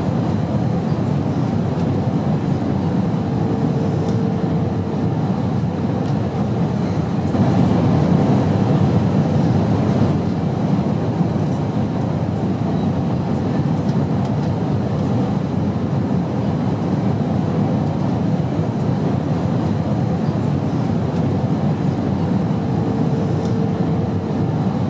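Airplane noise: a steady, even low rumble, swelling slightly about eight seconds in, with a faint hum that comes in briefly twice.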